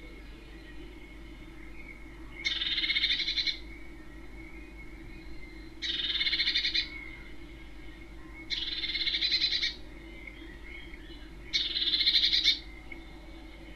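Small bird calling: a buzzy, rattling trill about a second long, given four times at roughly three-second intervals.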